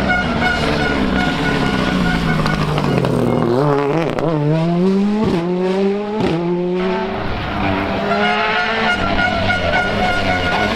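Rally car engine at full volume, its revs falling as it slows, then climbing hard with two quick upshifts as it accelerates away, before settling into a steadier pull. A thin steady high whine runs beneath the engine for much of the time.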